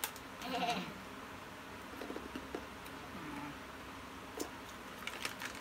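Honey butter almonds being chewed: faint, scattered crunching clicks, with a short hummed vocal sound about half a second in.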